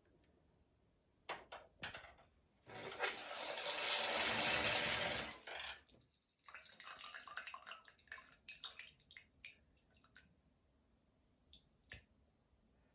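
Water running in a shower enclosure: a few clicks, then a steady gush for about three seconds that stops, followed by several seconds of uneven splashing and trickling.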